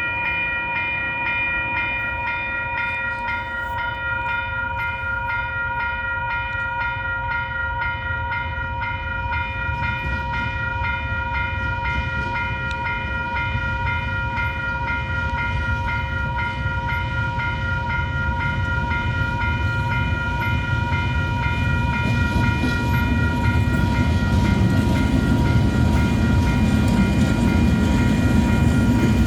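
Level crossing warning bell ringing in even, repeated strokes, while the rumble of an approaching train grows louder over the last several seconds.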